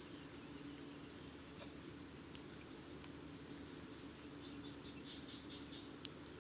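Night crickets trilling steadily at a high pitch, with a faint steady low hum beneath and a single click about six seconds in.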